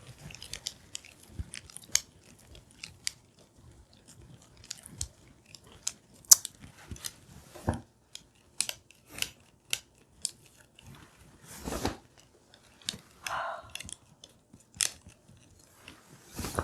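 Irregular small clicks and taps, with a few louder knocks among them: small objects being handled.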